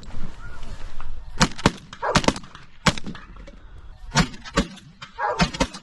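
A rapid volley of about seven shotgun shots from two guns fired at decoying snow geese, with geese honking in between the shots.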